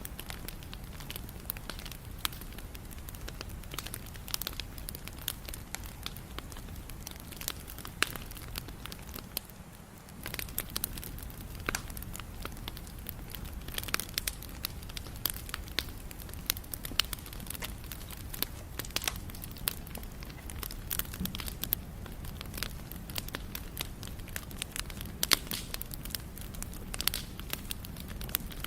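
Wood fire burning, crackling with many irregular sharp pops over the low steady rumble of the flames; the fire dips briefly softer about a third of the way in.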